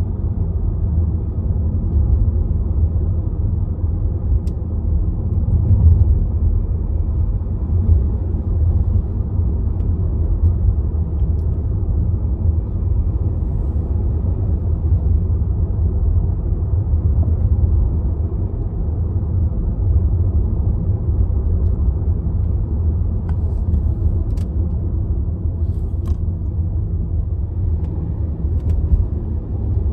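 Car engine running steadily with a low rumble. A few faint clicks come near the end.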